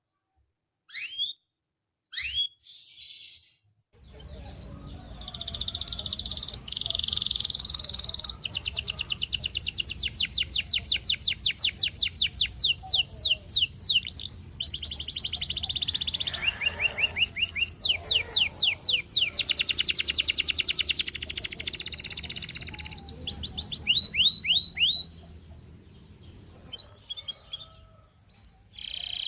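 Canary singing: a few separate chirps, then from about four seconds in a long run of song made of rapid repeated trills and rolls, easing into scattered notes near the end. A low steady hum sits underneath the song.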